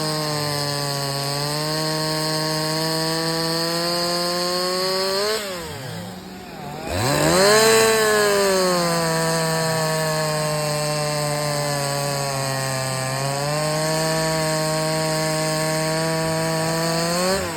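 Two-stroke chainsaw running at high revs while bucking a dry spruce log, its pitch sagging a little under load. About five seconds in, the engine drops down, then revs hard again and settles back to a steady cut. It eases off near the end.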